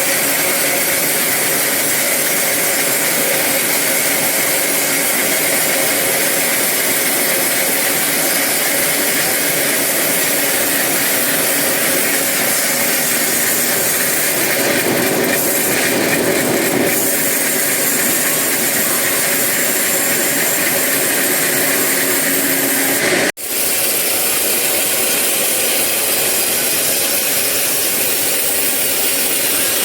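Sawmill saw running and cutting through eucalyptus wood, a loud steady whine and rush. About 23 seconds in it cuts off for an instant and starts again.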